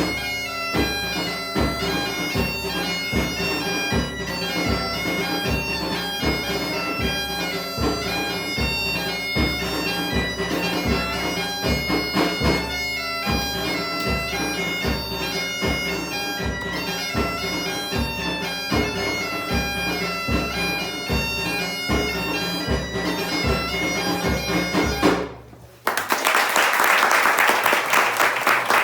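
Galician bagpipe (gaita) playing a tune over its steady drone, with a drum keeping an even beat. The music stops near the end and applause breaks out.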